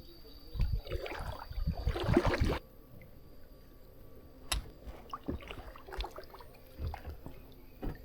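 Kayak paddling: paddle splashes and water dripping and gurgling. The sound drops abruptly about two and a half seconds in, leaving only sparse small splashes and drips.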